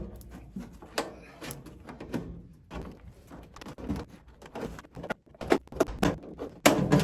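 Tin snips cutting through sheet-metal ductwork: a string of irregular sharp snips and metallic clicks as the last stretch of a 10-inch round hole for a duct takeoff is cut free.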